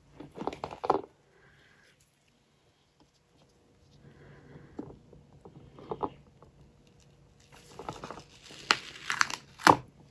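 Scattered handling noises of taps, scrapes and crinkling. A short cluster comes in the first second, a few soft ticks follow in the middle, and a busier cluster of clicks and crinkles runs through the last two or three seconds.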